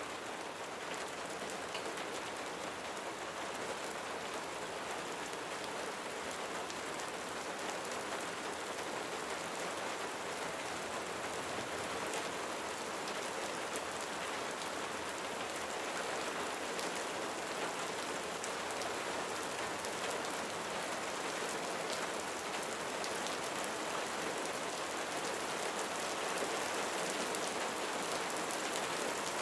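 Steady rain falling on a roof, a dense patter of drops, growing slightly louder over the stretch.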